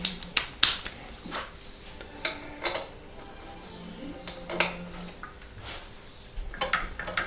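Sharp metallic clicks and clinks at irregular intervals from a torque wrench and hex bit being handled and fitted onto the bicycle crank arm's pinch bolts.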